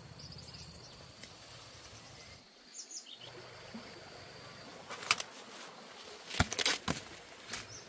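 Insects, crickets by the sound tags, trilling steadily with a fast pulse, stopping about two and a half seconds in, and a bird chirping briefly just after. From about five seconds in come several sharp knocks, the loudest near the end.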